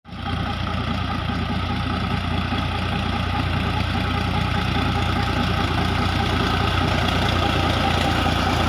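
Tractor diesel engine running steadily, growing slightly louder over the seconds.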